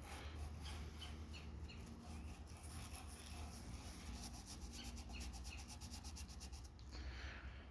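An old toothbrush scrubbing a liquid wood finish onto the cut edges of pallet wood, making faint, quick, rhythmic bristle strokes.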